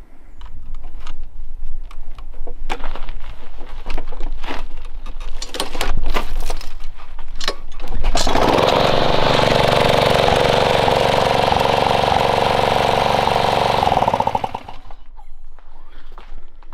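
Lawn mower's Briggs & Stratton DOV engine: a few irregular knocks and clatters, then the engine starts about eight seconds in, runs steadily for about six seconds and is shut off.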